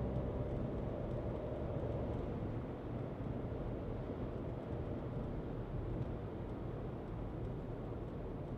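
Skoda Kushaq being driven: its engine note fades over the first two or three seconds, leaving a steady rumble of road and tyre noise.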